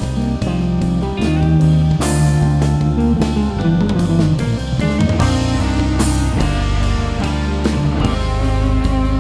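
Instrumental band music led by guitar over a drum kit, with sustained melody notes and a steady bass line.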